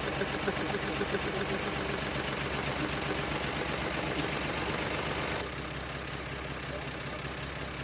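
1975 Plymouth Duster's engine idling roughly, with the idle bouncing around: the owner suspects a misfire or a vacuum leak. It gets a little quieter about two-thirds of the way in.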